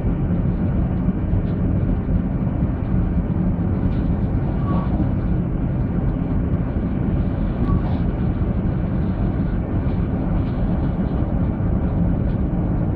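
Steady rumble of a train running at speed, heard from inside the passenger carriage, with two faint short squeaks about five and eight seconds in.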